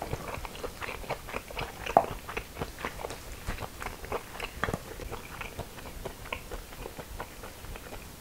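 Close-miked chewing of crisp raw young radish greens (yeolmu) bibimbap: a steady run of small crunches and wet mouth clicks, with one louder crunch about two seconds in.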